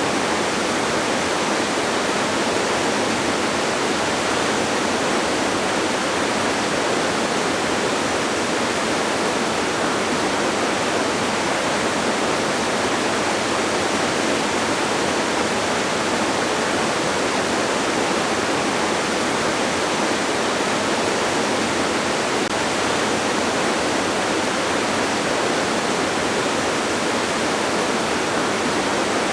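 Distant waterfall: a steady, even rush of falling water that does not change.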